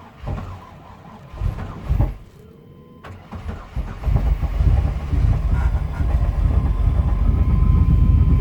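A fuel-injected 1995 Chevrolet Suburban engine trying to start at about −5 °F: a few brief sputters, then a pause, then it catches about four seconds in and keeps running steadily at cold idle.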